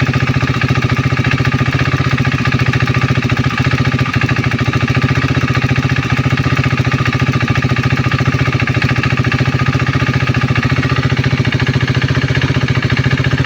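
KTM Duke 390's single-cylinder engine idling steadily, its firing pulses coming fast and even.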